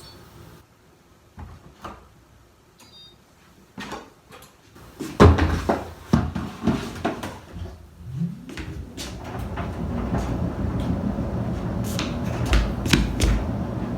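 Tumble dryer being started: a few clicks and short beeps, a loud thump about five seconds in, then the motor spins up with a rising hum about eight seconds in and the drum settles into a steady, loud tumbling run.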